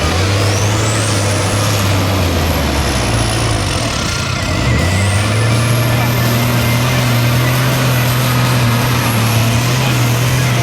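Off-road racing truck's engine running hard under load. A high whine rises, dips a little before halfway, and climbs again, while the engine note drops briefly and then picks back up.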